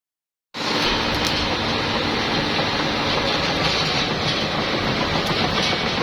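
Hitachi ZX200 hydraulic excavator's diesel engine running steadily. The sound cuts in suddenly about half a second in.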